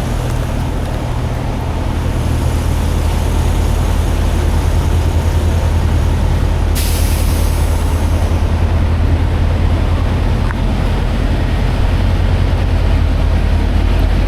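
Semi-truck diesel engine running steadily, with a sudden hiss of air about seven seconds in that fades over a second or so: the air brakes being released.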